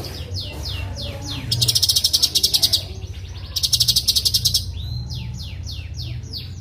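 Cucak cungkok singing: runs of quick, falling whistled notes, broken twice by a loud, rapid buzzing trill about a second long, over a low steady hum.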